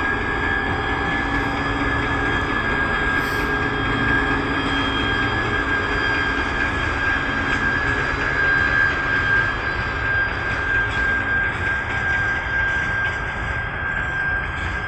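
2TE116 diesel locomotive running under load, a loud steady engine drone with a high whine held over it.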